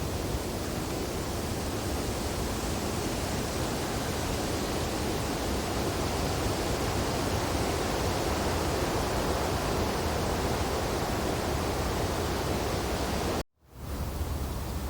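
Steady wind blowing through tree branches, an even rushing with no distinct events. Near the end the sound cuts out for a moment and fades back in.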